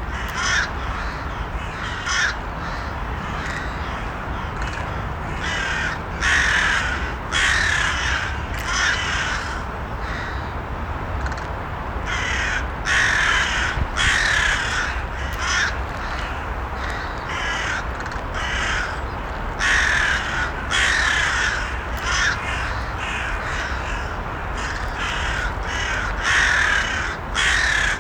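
Crows cawing in short runs of harsh calls every few seconds, with quieter gaps between, over a steady background noise.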